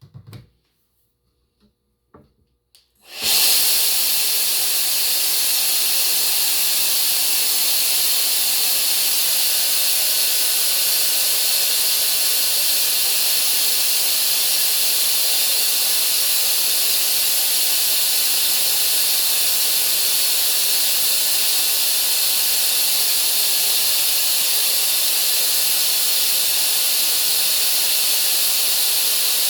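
3D-printed V8 compressed-air engine starting up when the air comes on about three seconds in, then running at a steady speed with a continuous hiss of exhausting air. A few faint clicks come before it.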